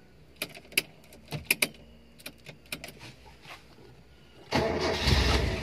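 Scattered light clicks and rattles inside a car. About four and a half seconds in, the engine starts and runs, much louder than the clicks.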